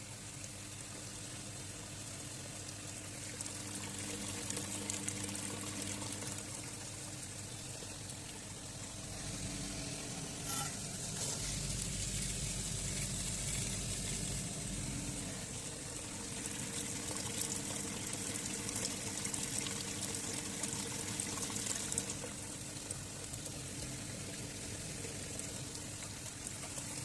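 Water running and splashing steadily, swelling twice, as in flushing scale out of a truck's cooling system (radiator and engine block). A low steady hum sits underneath.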